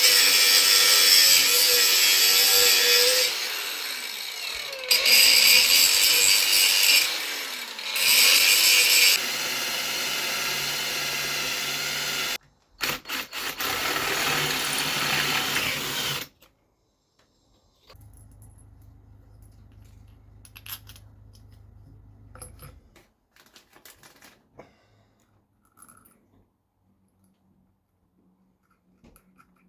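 Angle grinder and cordless drill working in turn, grinding off and drilling through a part in several loud bursts over the first sixteen seconds or so. After that, only faint clicks and handling noises.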